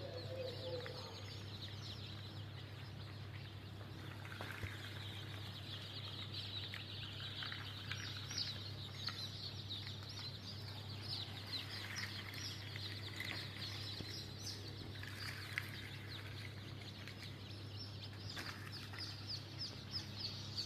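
A brood of Sonali chicks peeping constantly, many overlapping short high cheeps, over a steady low hum.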